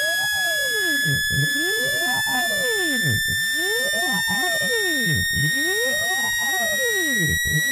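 Synthetic speaker-cleaning (water-ejection) tone: a loud, steady electronic tone slowly rising in pitch, with a lower sweep that rises and falls about once a second underneath. It is meant to vibrate a phone speaker's diaphragm so that it pushes out trapped water and dust.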